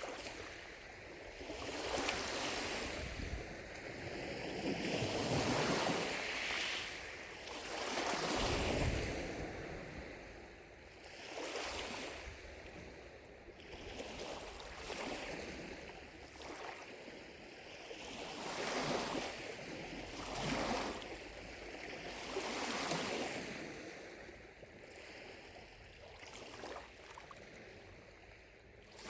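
Gentle lake waves lapping at the shore, a soft wash that swells and fades every couple of seconds.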